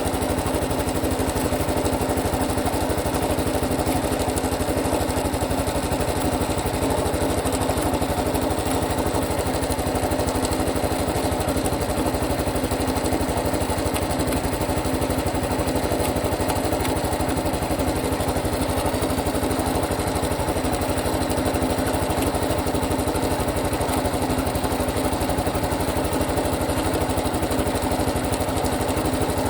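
Honda Super Cub Pro's air-cooled single-cylinder four-stroke engine running steadily at a constant speed, carrying the abnormal engine noise that the owner is checking.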